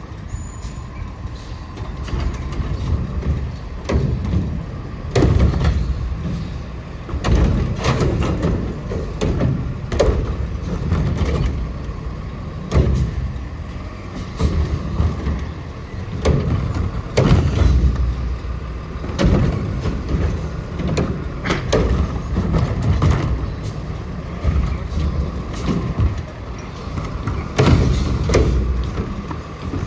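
Autocar ACX garbage truck with a Heil Curotto-Can loader at work: its diesel engine runs with a heavy rumble under a string of irregular bangs and thumps.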